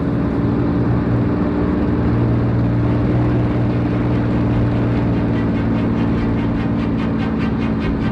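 Piston engine and propeller of a WWII-era warplane running steadily in flight, a loud continuous drone. A fast, regular pulsing comes into the sound from about five seconds in.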